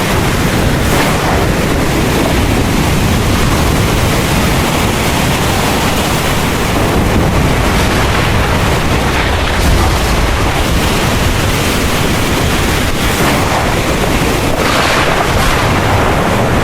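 Heavy rain pouring steadily with low rolling thunder rumbling underneath, and a brief louder wash of rain near the end.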